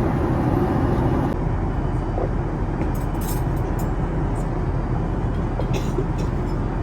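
Steady cabin noise of an airliner in flight, a low even rush, with a few faint ticks.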